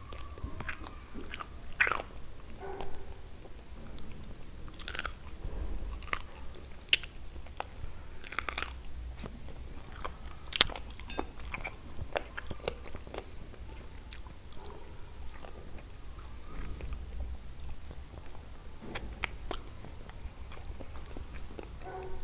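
A person chewing and biting on chicken wings and stewed eggplant close to the microphone, with scattered sharp clicks throughout.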